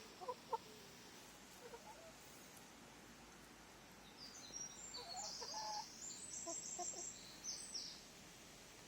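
Hen clucking softly in a few short calls, with a run of high chirps in the middle.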